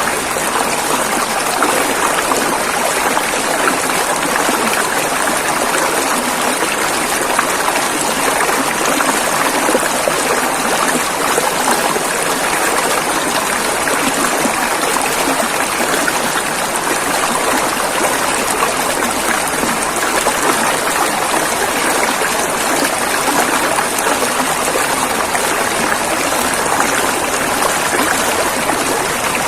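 Flowing river water rushing steadily over rocks, a dense, even hiss of rapids with no breaks.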